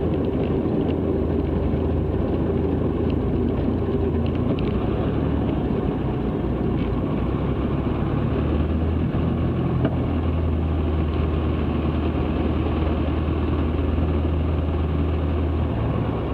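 Cessna 162 Skycatcher's Continental O-200 four-cylinder engine running steadily at low power on the ground, heard from inside the cockpit.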